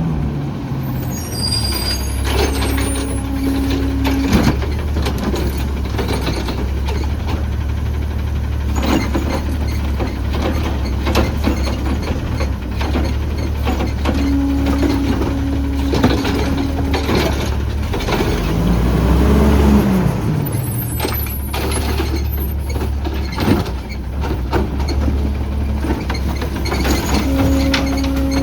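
CNG Autocar ACX garbage truck with a Heil Rapid Rail automated side-loader at work. The engine runs steadily with a hydraulic whine in three stretches, mixed with repeated clanks and knocks from the arm and carts and air-brake hisses. The engine revs up and back down about two-thirds of the way through.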